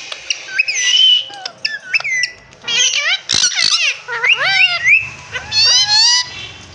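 Indian ringneck parakeet calling and chattering: a string of short whistled calls that slide sharply up and down in pitch, with a quick run of rising warbled notes near the end.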